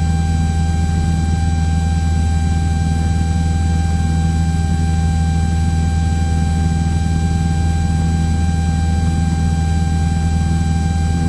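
Cessna 172's piston engine and propeller droning steadily in flight, heard inside the cabin, with a thin steady whine running over it.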